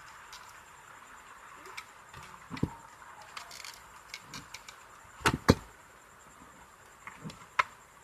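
Small clicks and knocks of an electric steam iron's parts being handled and fitted during reassembly, with two sharp knocks close together about five seconds in and another near the end.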